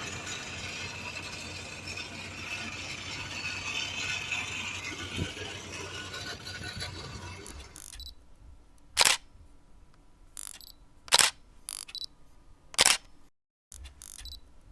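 Steady background noise for roughly the first half, then a series of sharp camera shutter clicks, about six of them at irregular intervals.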